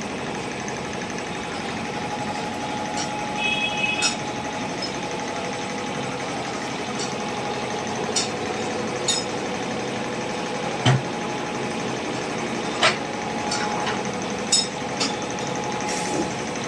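A steady mechanical hum with scattered sharp clicks and knocks, the loudest about 11 and 13 seconds in. A short high beep sounds about three and a half seconds in.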